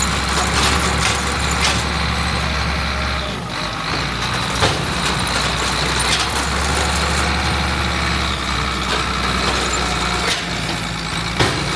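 Heavy diesel farm machinery running steadily, with its low engine hum dipping briefly twice and a few sharp clicks or knocks over it.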